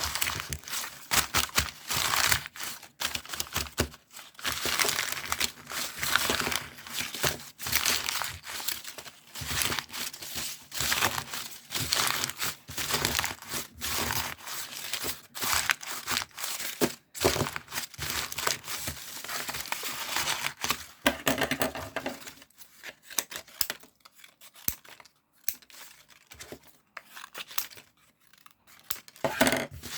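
Close-up crinkling, rustling and tearing of crinkly material being handled by hand, in dense irregular bursts that turn sparser and quieter over the last several seconds.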